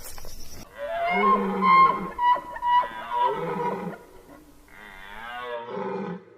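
An animal calling: a series of drawn-out, pitched cries that bend up and down, in two bouts with a short gap.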